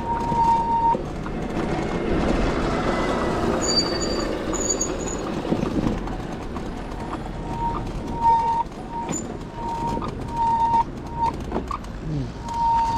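An electronic beep at one steady pitch sounds briefly at the start, then repeats in short pulses through the second half. In the first half a vehicle passes, its noise rising and then fading.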